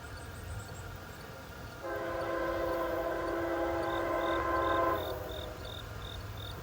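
CSX locomotive air horn sounding one steady chord for about three seconds, over the low rumble of the approaching southbound train. Crickets chirp in short, evenly spaced pulses throughout.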